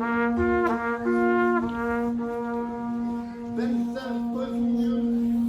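A brass quartet playing: a low note held throughout under shorter, changing notes in the upper parts.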